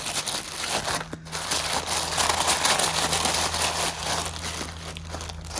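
Bag of rough opal crinkling and rustling steadily as it is torn open and rummaged through by hand. A steady low hum runs underneath.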